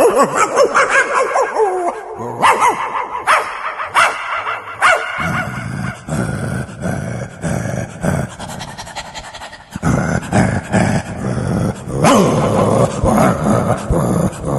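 A person imitating a dog with their mouth: a run of separate dog-like calls with short breaks between them.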